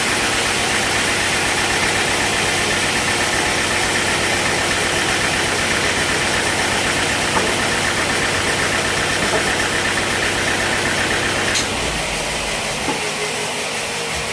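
Sawmill machinery driven by an engine, running steadily. Near the end the sound changes abruptly and gets quieter, as if the load or the machine shifts.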